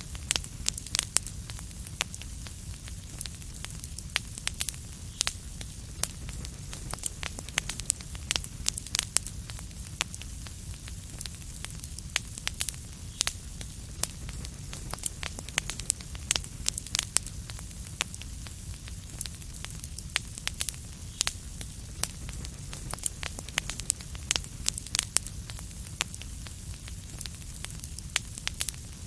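Wood fire crackling steadily, with frequent irregular sharp pops over a low rumble and soft hiss.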